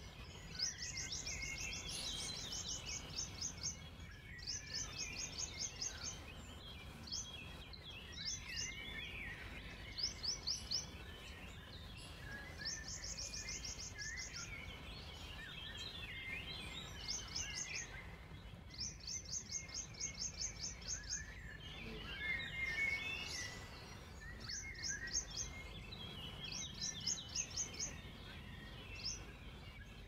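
Wild songbirds singing: a high, rapid trill of evenly spaced notes repeats every couple of seconds, with other birds' chirps and warbles in between, over a steady low rumble.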